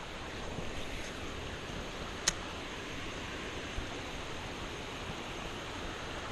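A creek's water running over rocks, a steady rushing noise. A single sharp click sounds about two seconds in, with a faint low knock a little later.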